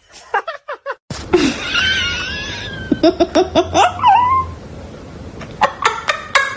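People laughing in rapid bursts, with a high, wavering squeal partway through.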